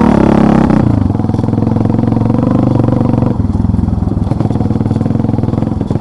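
Motorcycle engine running while being ridden, revs higher at first, easing off about a second in and changing again around three seconds in.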